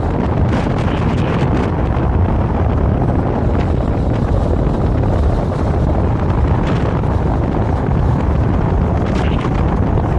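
Wind buffeting the microphone at the window of a moving Vario LF2R.E tram, over the low, steady rumble of the running tram.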